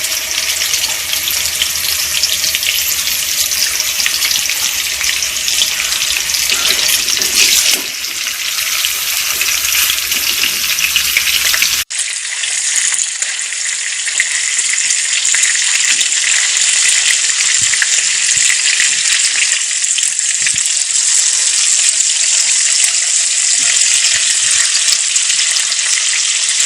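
Half-cooked chicken pieces sizzling in hot oil in a pan as they are shallow-fried until crisp. The sizzle breaks off abruptly about twelve seconds in and picks up again at once.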